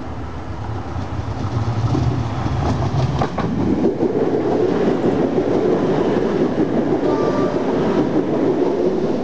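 First TransPennine Express Class 185 diesel multiple unit passing at speed. A low engine rumble grows as it approaches, then sharp clicks of wheels over rail joints come about three seconds in, followed by a steady roar of wheels and bogies as the carriages run by.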